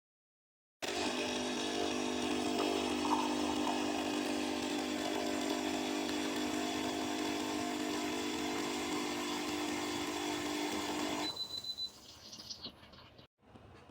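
Electric espresso machine running with a steady buzzing hiss for about ten seconds, then cutting off abruptly, with a brief sputter as it stops.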